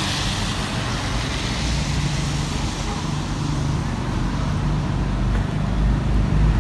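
Road traffic: a motor vehicle's engine hum over a steady background of traffic noise, with the engine growing louder near the end as a vehicle comes closer.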